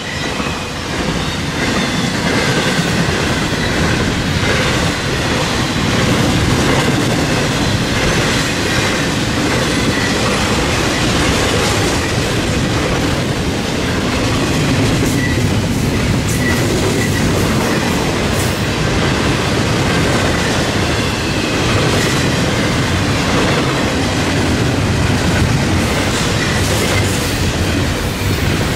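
Intermodal freight cars, trailers and double-stack containers, rolling past at speed: a steady rumble and rattle of steel wheels on the rails with light clicks and a faint high ringing from the wheels.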